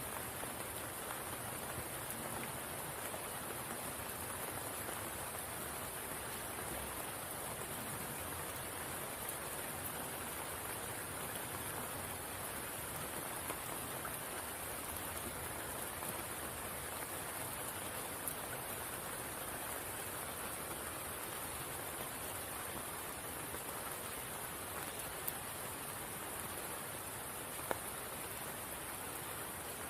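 Steady rain falling on a spring pool, an even hiss with a few louder single drops standing out.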